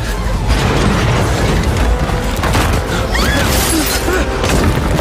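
Dam collapsing in a film sound mix: a heavy, continuous low rumble with booms and crashing concrete.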